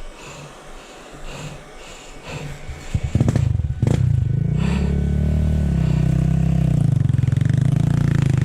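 A motorcycle engine sputters into life about three seconds in, catches, and then runs steadily with a loud low note, the revs rising and falling a little.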